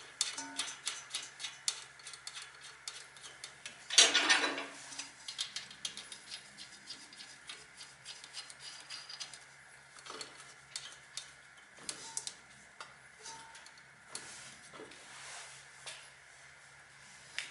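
Metal hand tools clicking and clinking in a long run of light ticks, with one louder rasping burst about four seconds in.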